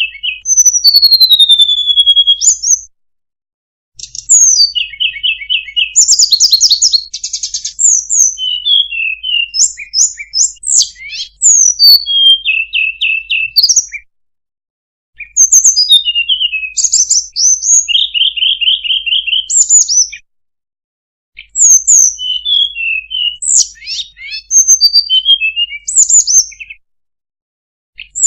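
Recorded song of a sulingan (tledekan) songbird played as a bird lure: rapid runs of high chirps, quick trills and sweeping whistled notes in bursts of several seconds, broken by short pauses of about a second, three times.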